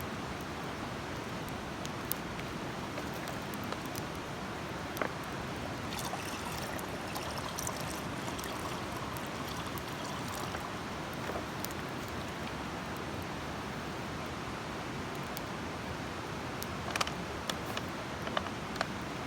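Campfire burning: scattered sharp crackles and pops over a steady rushing hiss, the pops coming more often in the middle and again near the end.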